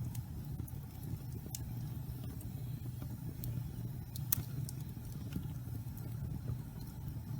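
Wood fire burning in a fireplace: a steady low rumble of flames with scattered sharp crackles and pops from damp pine logs, the loudest pop about four seconds in.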